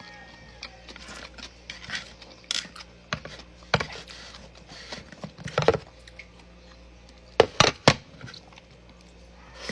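Dishes and plate being handled during a meal: scattered light clicks and knocks, with a few louder clinks and a quick cluster of three sharper knocks about three-quarters of the way through.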